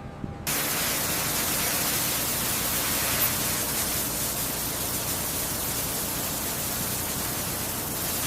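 Steady, even hiss like static, starting suddenly about half a second in and holding level throughout.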